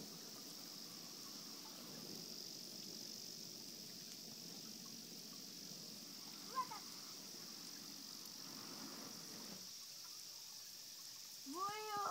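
Steady high-pitched chorus of crickets, over a low rushing haze that stops about three-quarters of the way through. There is a single brief chirp midway, and a short rising-and-falling voice near the end.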